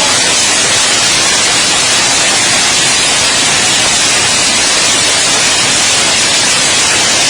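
Heavy downpour of rain and hail: a loud, steady, dense hiss with no let-up.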